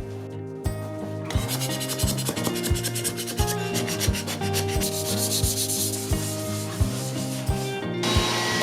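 Quick, even back-and-forth rubbing strokes on a wooden board, like hand sanding, with music underneath.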